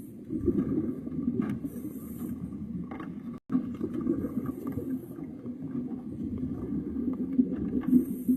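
Underwater rumble and gurgle of a scuba diver's exhaled bubbles, with short hisses of breath drawn through the regulator every couple of seconds. The sound cuts out for a moment about a third of the way in.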